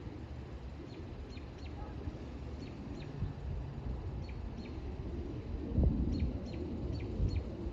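Small birds chirping in short, repeated high notes over a steady low rumble, with a brief low thump about six seconds in.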